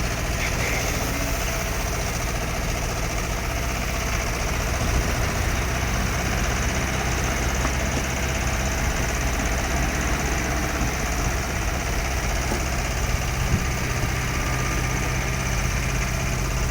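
Heavy diesel engine running steadily at a constant low speed, a deep even hum with no revving.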